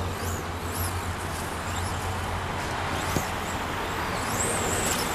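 Electric 2WD stock RC stadium trucks racing: high-pitched motor whines rising and falling as the trucks accelerate and slow, over a steady low hum, with a single click about three seconds in.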